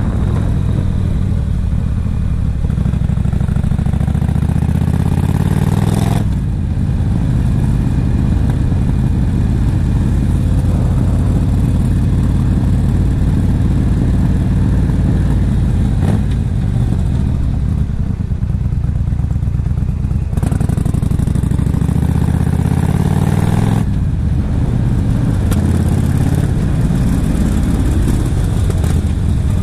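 Yamaha XVS1300CU Stryker V-twin motorcycle engine running under way. The engine note climbs and then drops sharply a few times as the revs rise and fall through the bends.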